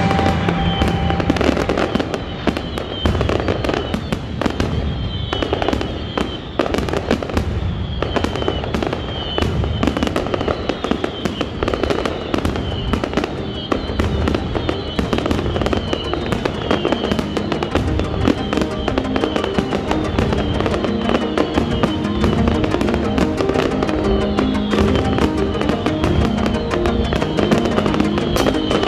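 Aerial fireworks display: rapid, continuous bangs and crackling from bursting shells, with music playing along underneath.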